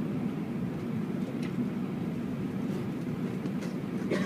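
Steady low hum inside an Airbus A319's cabin at the gate, with a few faint ticks.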